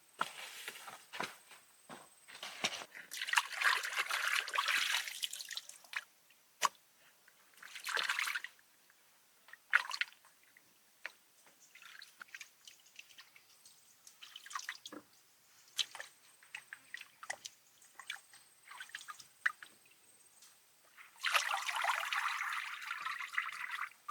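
Water pouring and trickling in several bursts, the longest near the start and near the end, with small clicks and knocks of handling between them.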